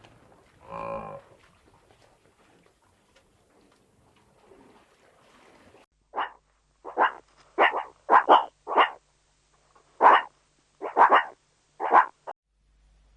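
An animal calling: one drawn-out pitched call about a second in, then after a pause of several seconds a run of about ten short, sharp calls at uneven intervals.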